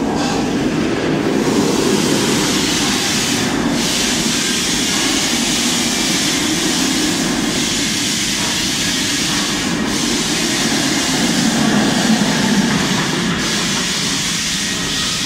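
Small amusement-park ride train running along its track, a steady rumble with a hiss over it.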